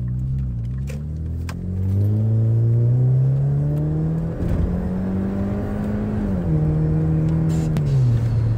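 Turbocharged car engine accelerating hard, its note rising through the revs, with a noisy break at a shift about four seconds in that fits the turbo's blow-off valve venting. The note then steps down twice near the end as the engine comes off load.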